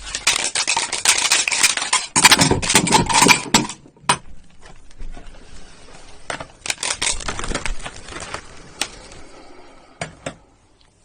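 Toy building blocks clattering and knocking together as they are handled. A dense rattle for the first few seconds, then scattered clicks and knocks.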